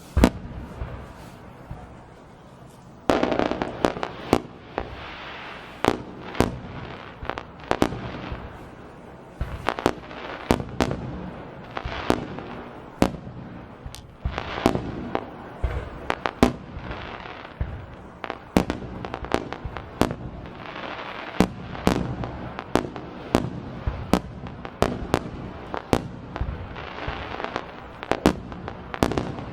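Aerial fireworks display: a sharp bang near the start, then from about three seconds in a rapid barrage of bursts, one or two sharp bangs a second, with crackling and echoing rumble between them.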